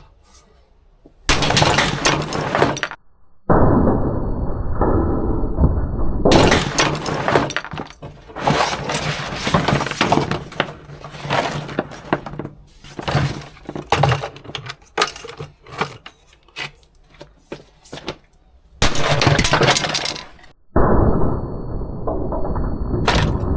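Hammer blows smashing a vacuum cleaner and contactor apart: many sudden cracking and crunching impacts with breaking and clattering pieces, coming in dense runs, with a few stretches that sound muffled.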